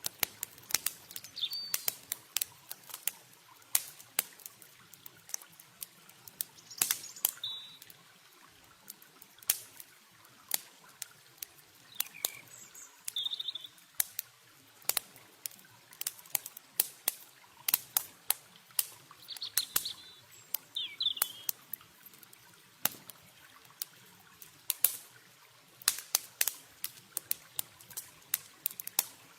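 Wood campfire crackling with sharp, irregular pops over a faint steady rush of water. Short bird chirps come a few times.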